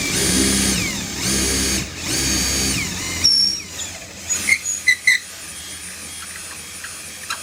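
Power drill driving screws into cedar deck boards: three short runs of motor whine, each winding down as the screw seats. A few sharp clicks and squeaks follow about four to five seconds in.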